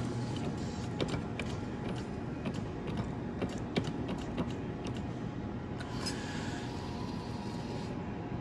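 Claw machine working through a play: a steady mechanical hum with scattered clicks and knocks from the moving claw and gantry.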